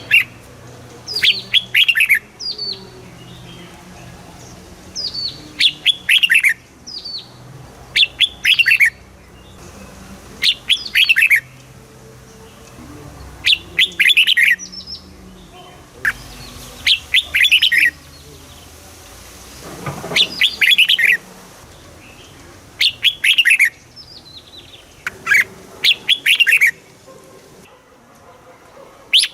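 Red-whiskered bulbul singing: short phrases of clear, quick whistled notes, each note falling in pitch, repeated every two to three seconds.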